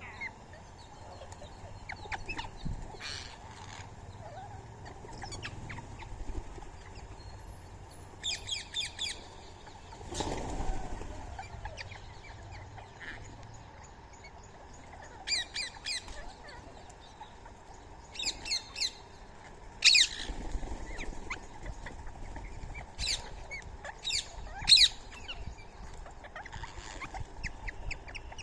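Birds calling in short bursts of quick, high chirps, repeated several times, with a brief rushing whoosh about ten seconds in.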